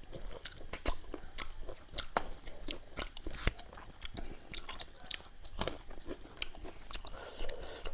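A person chewing a mouthful of rice and pork curry close to the microphone, with irregular wet clicks and smacks from the mouth.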